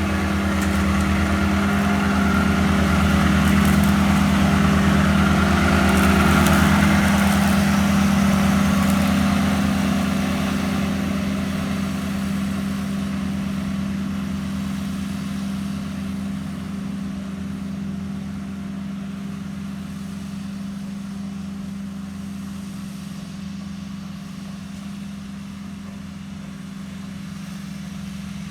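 Walker ride-on mower with a Kubota engine running steadily while mowing. It is loudest in the first several seconds, then grows steadily fainter.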